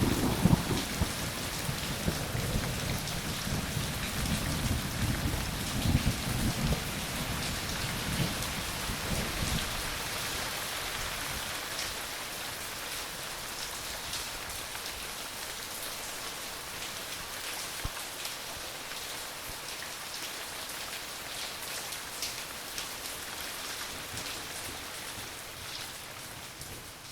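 Steady rain pattering, with a low thunder rumble at the start that dies away about ten seconds in.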